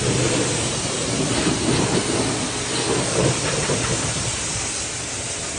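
Water sprayed hard against a truck: a steady hiss of high-pressure spray with a rumble beneath it, as the pre-wash is loosened and rinsed off.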